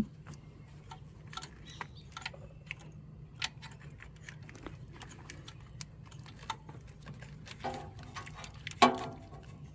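Hand wrench and metal tools clicking and clinking irregularly against a bolt and engine-bay metal while loosening an alternator mounting bolt, with a louder metallic clank and brief ringing near the end.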